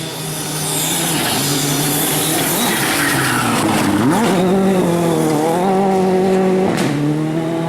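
Rally car engine revving hard, its pitch falling and climbing again with gear changes, with a sharp drop in revs about four seconds in and another near the end.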